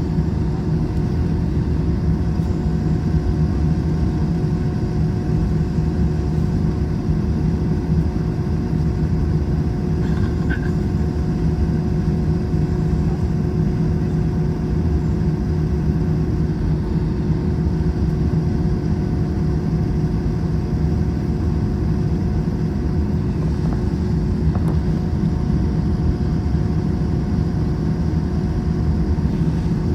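Airbus A321 cabin noise heard from a passenger seat: a steady jet-engine and airflow drone, low and even, with a few constant humming tones in it.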